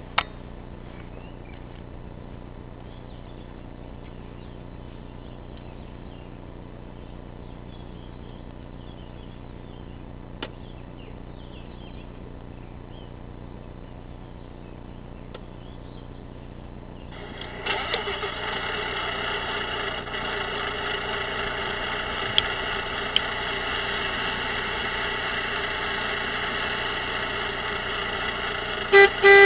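Radio-controlled model Kenworth W900 truck's sound module: after a long stretch of faint background, an engine-start sound about seventeen seconds in, then a steady diesel truck engine running. Right at the end come short horn toots.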